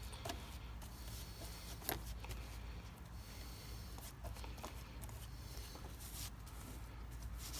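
Faint scattered rustles and light taps of hands working resin-wet fiberglass cloth into place, over a steady low hum.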